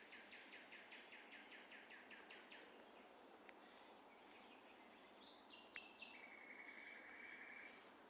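Faint songbirds singing: one bird repeats a quick high note about four times a second, stopping a little under three seconds in. After a short gap, other short high calls and a steady trill follow, over a constant background hiss.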